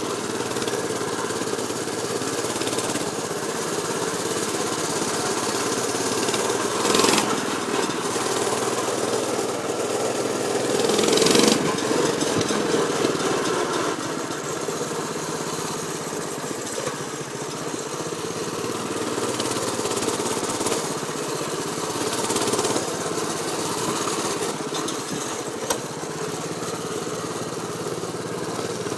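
Baja MB200 mini bike's 196 cc single-cylinder four-stroke engine running steadily, with two short louder swells about seven and eleven seconds in.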